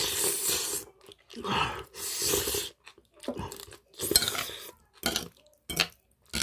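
Close-up chewing of spicy webfoot octopus with rice in several bursts, while a metal spoon and fork scrape and click against the plate as the rice is mixed.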